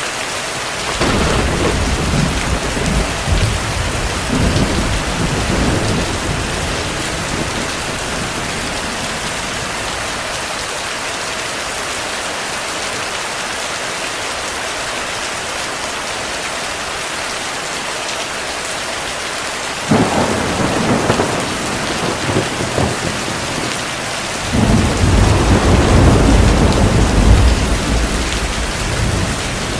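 Steady heavy rain with thunder rumbling over it three times: a rolling rumble about a second in, a sharper clap about two-thirds of the way through, and the loudest, longest rumble near the end.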